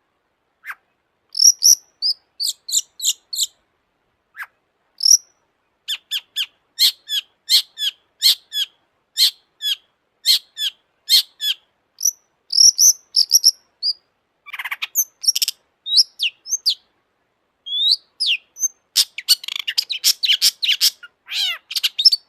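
Long-tailed shrike (cendet) singing: runs of short, sharp, high notes at about two to three a second, broken by pauses, ending in a dense, fast burst of chattering notes in the last few seconds.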